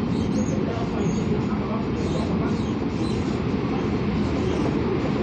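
Steady running noise inside the cabin of a Taiwan Railways local electric multiple-unit train: an even low rumble that holds at one level throughout.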